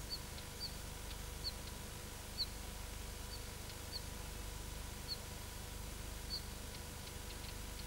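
A small bird giving short, high call notes, about one a second at uneven intervals, over a faint steady hum.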